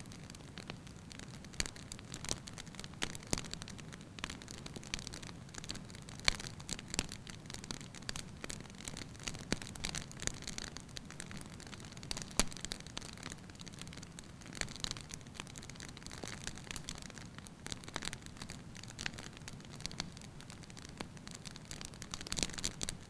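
Wood fire crackling in a fireplace: irregular pops and snaps over a steady hiss.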